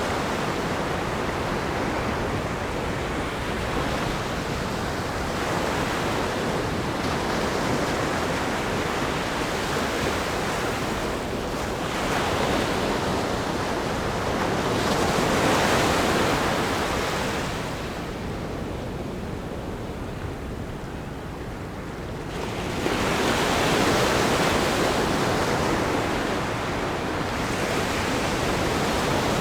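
Ocean waves breaking on a rock groin and washing over sand: a continuous rushing surf that swells with each breaker, loudest at two crashes near the middle and about three quarters of the way in, with a quieter lull between them.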